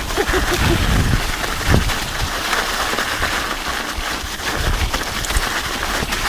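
Mountain bike on Terrene Cake Eater studded tires riding over an icy trail: a steady crackling hiss from the tires on ice, with low rumble and a few sharp knocks and rattles from the bike.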